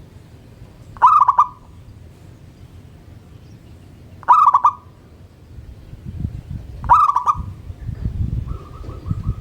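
Zebra dove (perkutut) cooing: three short calls, each a quick run of clipped notes, about three seconds apart. Near the end a faint fast series of even notes comes from another bird, over a low rumble in the second half.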